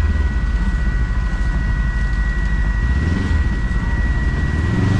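Kawasaki KRX side-by-side's parallel-twin engine running under way on a trail, a deep steady rumble with a thin steady high whine over it.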